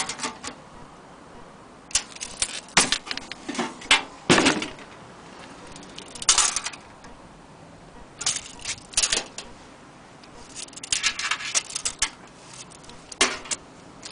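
A vintage toy washing machine being handled, giving irregular bursts of light clicking and clattering. The loudest clusters come about two to four and a half seconds in, with more near the middle and toward the end.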